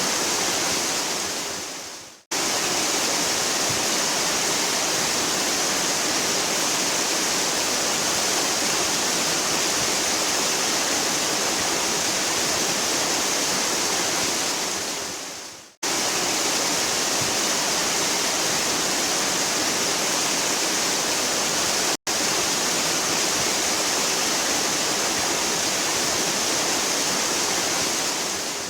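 Waterfall rushing steadily, a dense, even roar of falling water. The sound fades away and then cuts back in abruptly twice, about two seconds in and again around sixteen seconds, with a brief dropout near twenty-two seconds.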